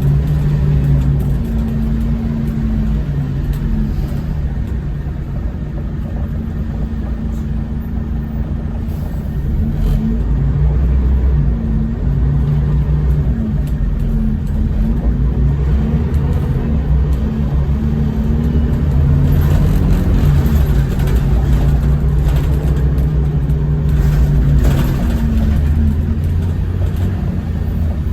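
Scania L94UB bus's diesel engine running under way, its pitch rising and falling repeatedly as it accelerates and shifts gears, over a low rumble.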